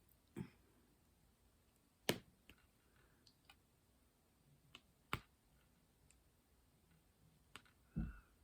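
A handful of light, sharp clicks and taps a second or more apart, from small objects handled at a craft table, with a duller thump near the end.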